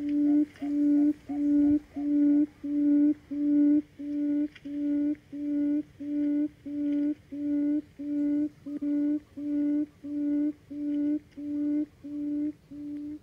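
Buttonquail calling: a long run of low, even hoots, about two a second, all on one pitch.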